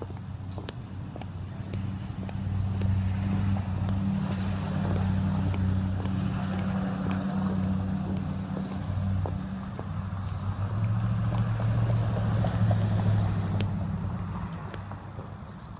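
A motor vehicle's engine passing close by: a low hum that grows louder over the first few seconds, holds, and fades away near the end.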